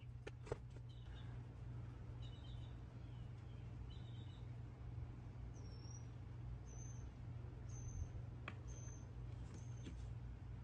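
Faint bird chirps: a few short chirps, then from the middle on a bird repeating one short high chirp about once a second, over a steady low hum. A few small clicks of carburetor parts being handled.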